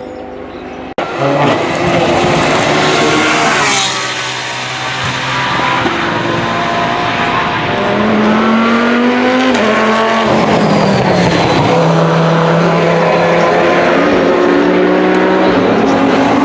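Race car engines passing at speed one after another, revving up and down through gear changes. One car sweeps close by about four seconds in.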